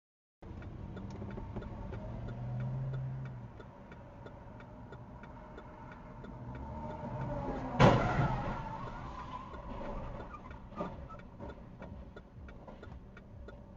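Car road and engine noise recorded by a dash camera, with a steady regular ticking. A little past halfway comes a loud, sharp crash of a collision that rings out for about a second, and a smaller knock follows about three seconds later.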